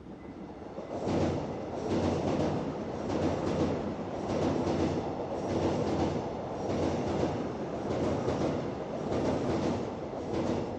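Electric train passing close by: a steady rumble that builds over the first second, with a regular clatter of its wheels over the rail joints.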